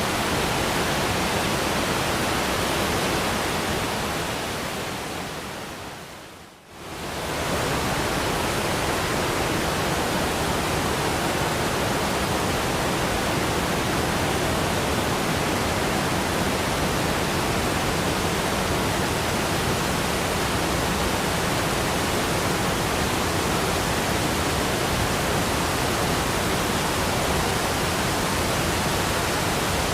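Steady, dense rushing noise of a waterfall. A few seconds in it fades down to a moment of near silence and swells straight back up, like the seam of a loop.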